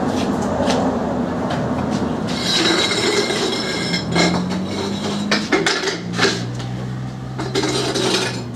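Flooded 1980 Husqvarna CR390 two-stroke single being kick-started, turning over and spluttering with clattering knocks; a steady low note sets in about four seconds in.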